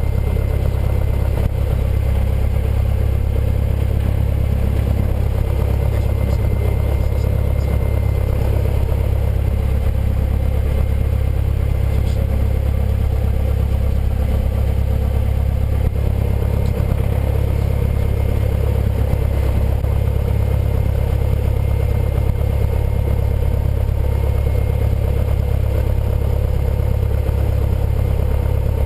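Cessna 172N's four-cylinder Lycoming O-320 engine and propeller running steadily, a constant drone with no change in power.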